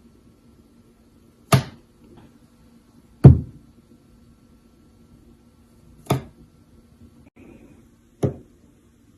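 Four sharp knocks, roughly two seconds apart, over a faint steady hum.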